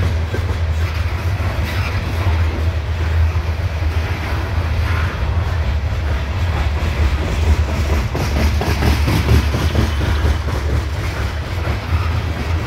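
Freight train of CSX coal hopper cars rolling past close by: a steady low rumble of steel wheels on the rails, with scattered clicks and clanks.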